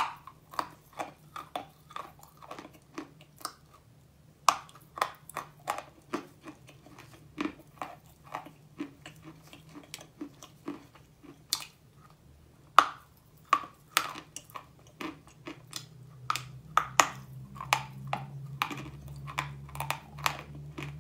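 Close-up crunching of chalk being chewed: a run of sharp, dry crunches, several a second. A low hum grows louder in the last few seconds.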